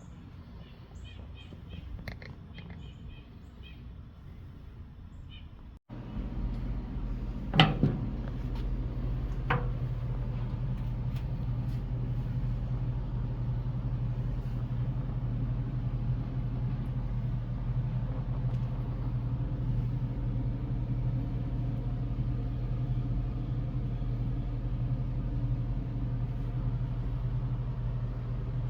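Birds chirping over a quiet outdoor background. After an abrupt cut, a steady low mechanical rumble with a hum, like a motor running, goes on to the end, with two sharp clicks shortly after it starts.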